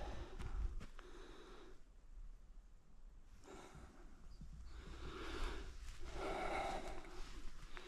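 A man breathing heavily, out of breath from climbing a steep hill: a run of loud breaths in and out, about one a second, with a brief lull about two seconds in.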